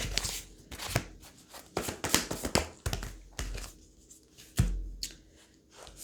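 Tarot cards being handled by hand: several short rustles and slaps as the deck is shuffled and cards are laid down.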